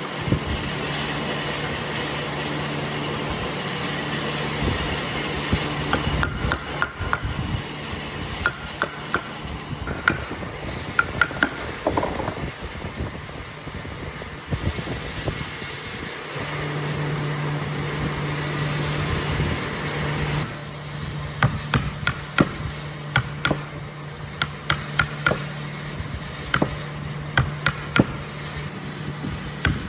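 A workshop power tool's motor running steadily twice, for about six seconds and then for about four, with scattered knocks and taps of work on wood throughout, thickest near the end.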